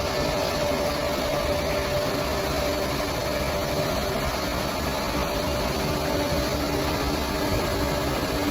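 Bulldozer's diesel engine running steadily, an even mechanical drone with no change in pace.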